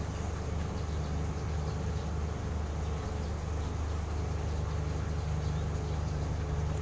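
Steady low mechanical hum with faint scattered high ticks.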